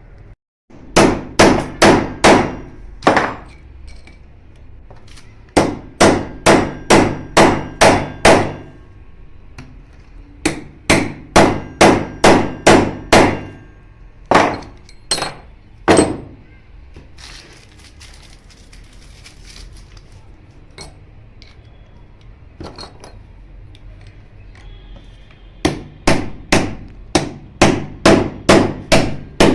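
Hammer striking metal in runs of about half a dozen quick blows, roughly two a second, each ringing briefly, with pauses between the runs.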